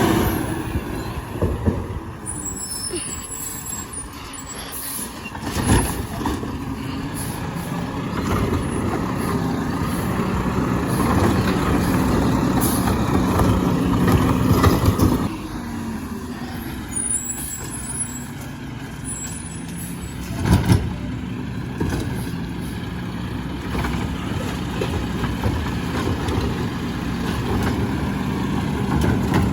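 Garbage truck engine running steadily, with two sharp knocks, one about six seconds in and one about twenty-one seconds in.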